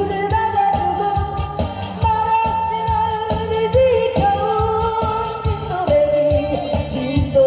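A woman singing a Korean folk-style pop song in long held notes over a backing band with a steady beat.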